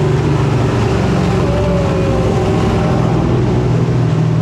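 Turbocharged Gen V LT V8 truck engine running at a steady speed on a chassis dyno, its low, even note holding without rising or falling.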